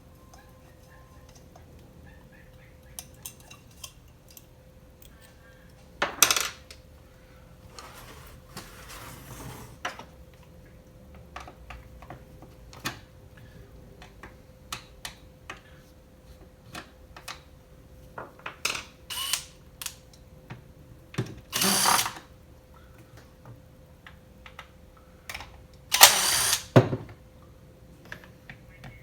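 Metal tools clicking and clinking against the Echo chainsaw's muffler and small parts being set down, with a few short bursts of a power tool, as the muffler is taken off. The loudest bursts come about six seconds in, near the middle and near the end, the last one winding down.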